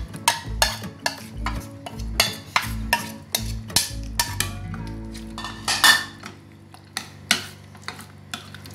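Metal utensils knocking and scraping against a steel pot and bowl in irregular sharp clicks, a few a second, as ground coconut paste is scraped into a simmering curry. The knocks thin out after about six seconds, when a ladle starts stirring.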